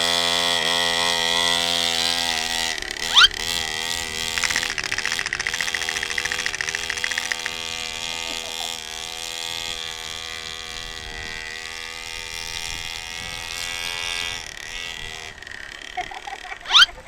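Small 49cc two-stroke mini dirt bike engine running with a buzzy note, slowly fading as it moves away. Short, loud rising squeals cut through it about three seconds in and again near the end.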